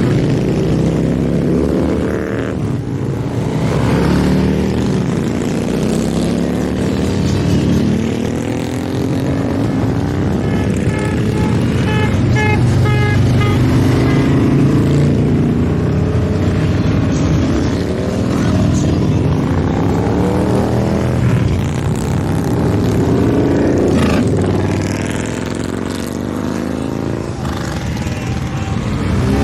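A steady stream of motorcycles riding past, their engines rising and falling in pitch as each one goes by. A series of short, evenly spaced high beeps sounds partway through.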